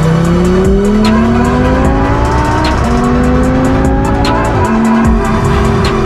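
Audi R8 engine accelerating hard through the gears: the pitch climbs, drops at an upshift about two and a half seconds in, climbs again, then settles to a steady note near the end as the car eases off. A music beat ticks underneath.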